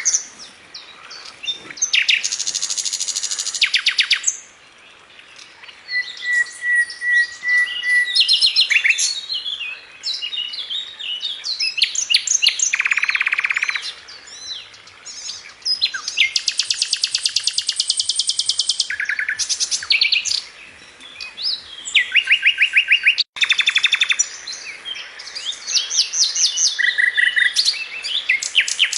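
Songbirds singing: a long series of fast rattling trills and chirps, one phrase after another with short pauses, some lower and buzzy, others high and bright. The sound cuts out for an instant a little past the middle.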